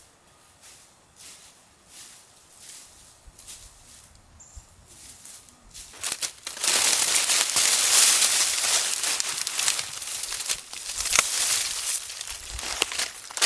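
Faint crunching footsteps, then about six seconds in a loud, continuous rustling and crunching sets in, full of sharp crackles.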